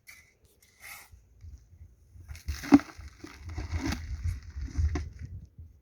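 Soil being scooped and poured into a container, a gritty rustling and scraping with a sharp knock a little before the middle.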